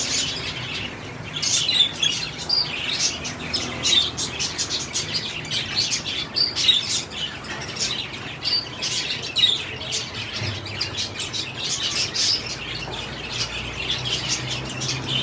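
A flock of budgerigars chattering: many short, high chirps and warbles overlapping without pause.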